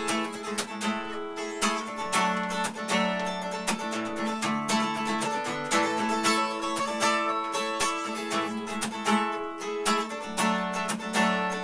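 Acoustic guitar strummed steadily in an instrumental passage between sung verses of a song.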